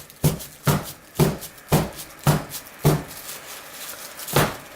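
A soap mold full of melted curd soap being knocked down on the work surface to settle it and drive out air bubbles: steady thuds about two a second, six in the first three seconds, then one more near the end.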